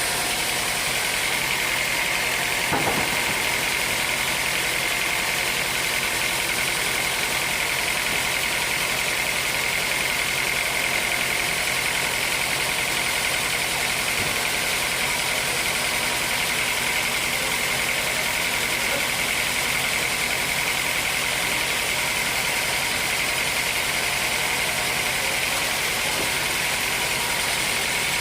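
Sawmill running steadily while sawing dry teak: a constant machine noise with a steady high whine over it.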